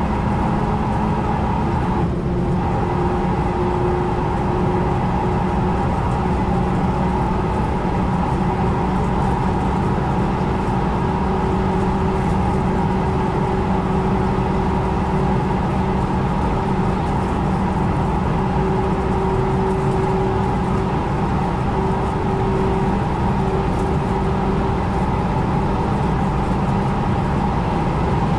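Renault Mégane RS Trophy-R's turbocharged 1.8-litre four-cylinder at full throttle, heard from inside the cabin with wind and tyre noise. It upshifts into sixth about two seconds in, then drones steadily near 6,000 rpm.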